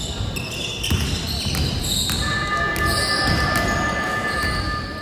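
A basketball bouncing on an indoor court amid game noise and voices in a large hall, with a steady high tone coming in about two seconds in.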